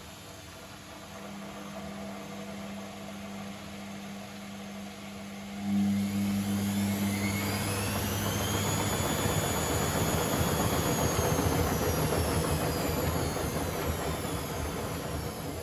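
Privileg Sensation 952 S top-loading washing machine running: a steady low hum that steps up sharply about six seconds in, then a motor whine that rises in pitch as the drum spins up, holds for a few seconds over a rushing noise, and falls again near the end, a brief spin.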